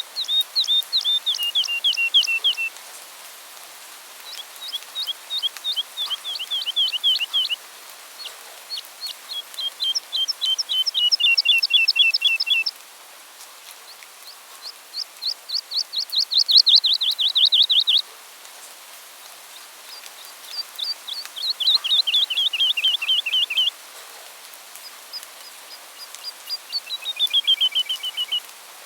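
A songbird singing six phrases, each a rapid run of repeated down-slurred whistled notes lasting three to four seconds, with short pauses between phrases.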